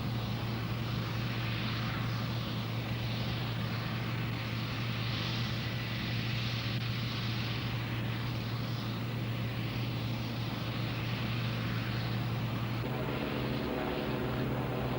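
Helicopter running: a steady turbine and rotor drone with a constant low hum under a broad rushing noise that swells and fades slowly. A few more steady tones come in a couple of seconds before the end.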